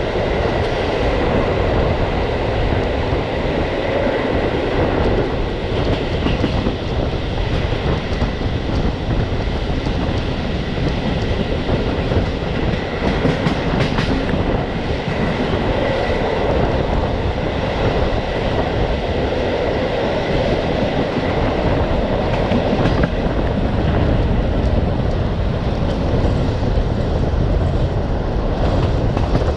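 Passenger train coach running along the track: a steady rumble of wheels on rail with a faint steady high whine, and a few sharp clicks at rail joints around the middle and about two-thirds of the way through.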